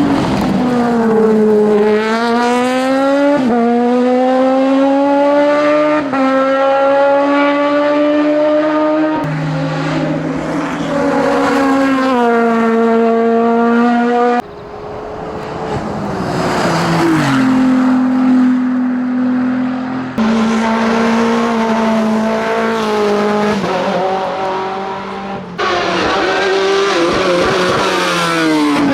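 Hillclimb racing cars accelerating hard, their engines revving up through the gears with quick upshifts. The engine sound breaks off suddenly a few times and starts again.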